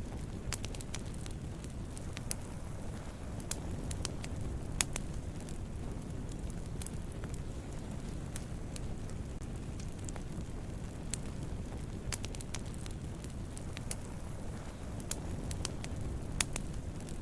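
Wood campfire burning: a steady low rumble of the flames with irregular sharp crackles and pops from the burning wood, two of them louder than the rest.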